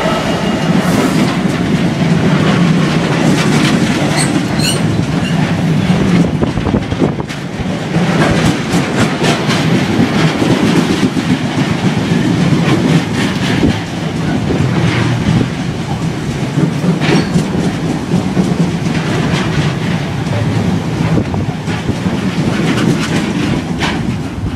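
A freight train of tank wagons rolling past close by, a steady rush of wheels with repeated clatter. A Class 66 diesel locomotive's engine fades out in the first second, and the sound starts to fall away near the end as the last wagon passes.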